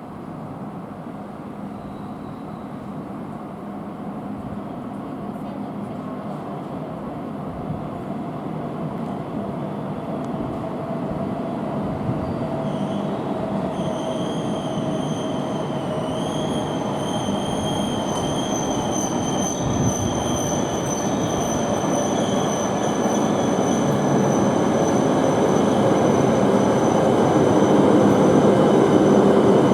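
A Tohoku Shinkansen train drawing into the station, its running noise growing steadily louder as it approaches. From about halfway through, a high steady squeal joins it, typical of the brakes as the train slows to stop at the platform.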